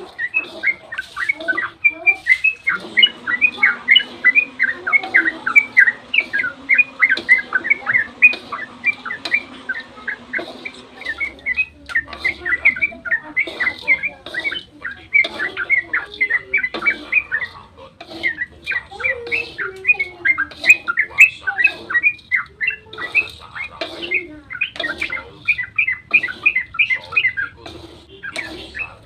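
Yellow-vented bulbul (trucukan) song in long 'ropel' runs: rapid, continuous chattering of many short, bright notes a second, broken by brief pauses.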